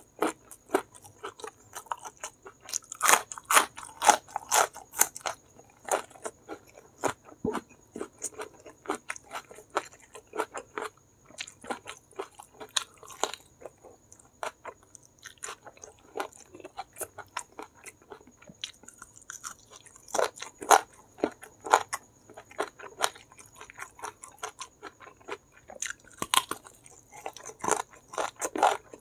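Close-miked eating: chewing and crunching of crispy fried chicken (ayam geprek) with rice, many sharp mouth clicks and smacks in irregular clusters, busiest about three seconds in, around twenty seconds and near the end.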